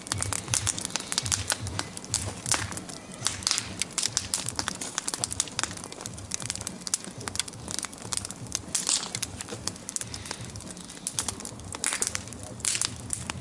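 Large bonfire burning, with a dense, irregular crackle of sharp pops and snaps over a low rumble.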